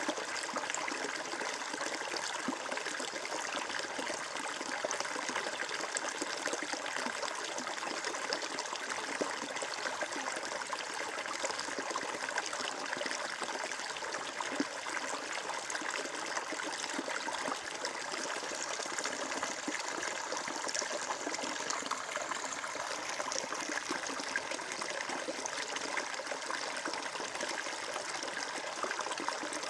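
Water flowing and trickling steadily, a continuous babble of a stream.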